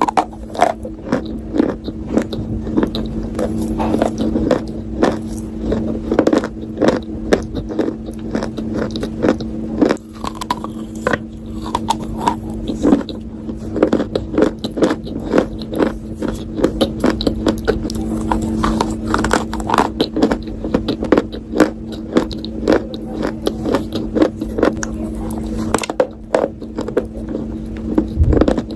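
A person biting and chewing something hard and crunchy close to the microphone, in a continuous run of sharp crunches several times a second. A steady low hum runs underneath.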